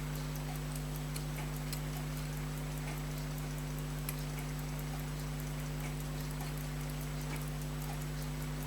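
Elgin pocket watch movement ticking rapidly and faintly as its balance overbanks, a fault the restorer puts down to a rusted, dirty hairspring. A steady electrical hum sits under the ticking.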